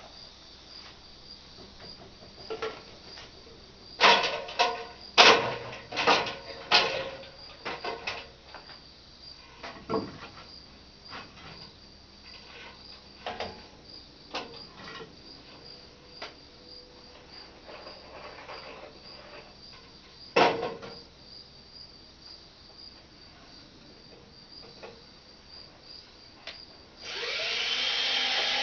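Crickets chirping steadily in the background, with scattered sharp knocks and clatters of work on wooden shed framing. Near the end a power drill runs for about two seconds, its pitch rising as it spins up.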